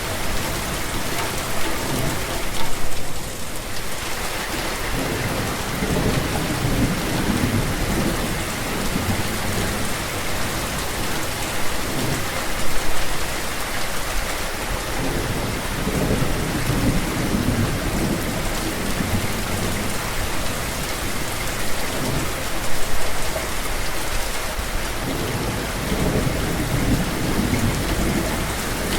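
Steady rain hissing, with low rumbles of thunder that swell and fade every few seconds.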